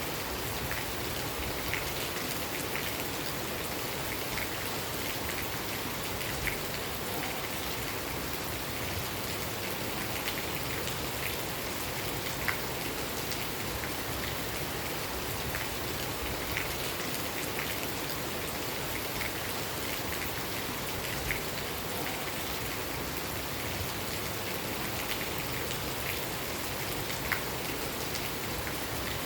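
Steady rain, a constant hiss with scattered louder drops ticking on a surface every second or so.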